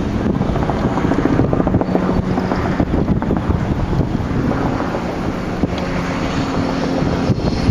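Freight train running past, a loud steady rumble with a low, even hum through it, and wind buffeting the microphone.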